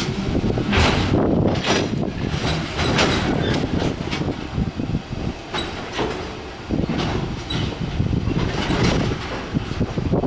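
Freight train rolling past on the rails, its wheels clacking over the rail joints in an irregular series of sharp knocks over a steady rumble.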